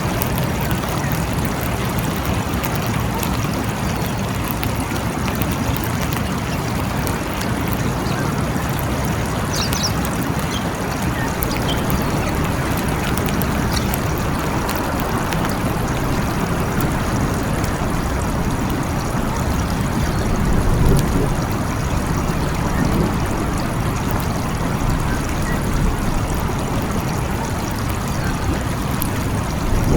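Steady rain falling in a forest, an even hiss of many drops with a slight swell about two-thirds of the way through.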